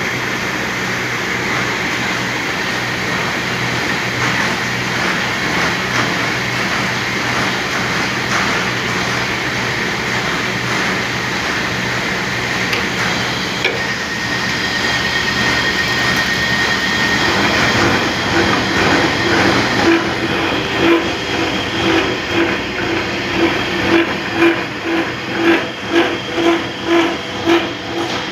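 Tea factory CTC (crush-tear-curl) roller milling machinery running with a loud, steady mechanical hum. Over the last several seconds a rhythmic pulsing beat of about two a second builds in.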